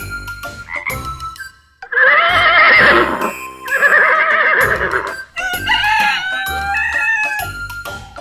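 Comic cartoon sound effects over light children's background music: two loud warbling, wobbling-pitch calls, each about a second long, followed by several sliding tones.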